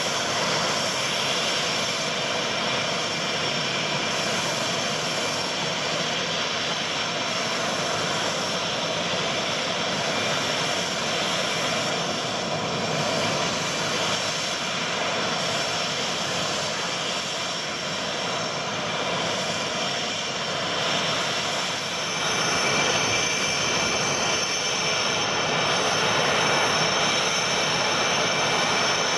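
CF-18 Hornet's twin General Electric F404 turbofan engines running steadily: a broad jet rush with a steady high-pitched whine, getting a little louder about two-thirds of the way through.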